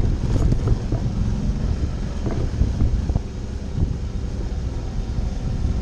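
Suzuki V-Strom motorcycle running under way on a dirt trail, its engine drone mixed with wind buffeting on the microphone and a few short knocks.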